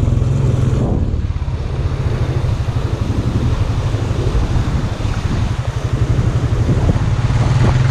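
ATV engine running at low revs with a steady low hum that breaks into a fast even pulsing through the middle, over a broad hiss of wind noise.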